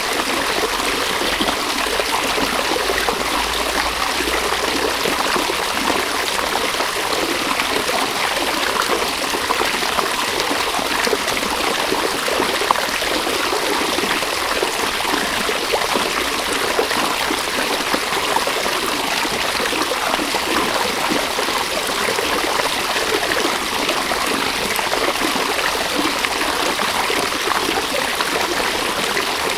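River water running over stones: a steady, dense burble and splash of flowing water.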